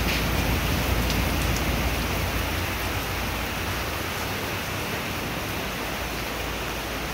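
Heavy rain pouring down steadily. A low rumble under it eases off about four seconds in.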